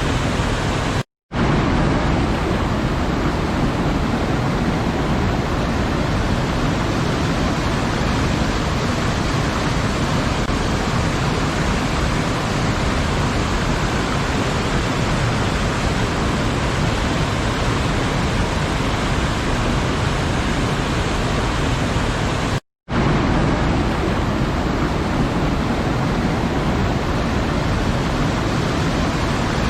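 Waterfall rushing, a steady, even roar of falling water. It cuts out to silence for a split second twice, about a second in and again later, as at the joins of a looped recording.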